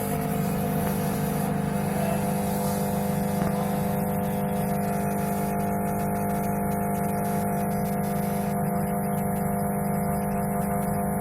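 Kenstar microwave oven running with a steady hum while failing to heat: its magnetron is faulty.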